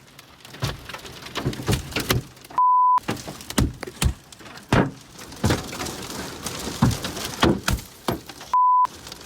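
Hailstones pelting a car, heard from inside: hard, irregular knocks several times a second. Two short censor bleeps cut in, about two and a half seconds in and near the end.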